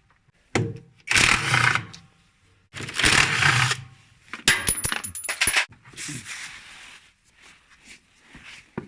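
Electric impact wrench running in three short bursts, unscrewing the bolts of a washing machine's drum counterweight, followed about halfway through by a quick run of sharp metallic clinks as loose metal parts are handled.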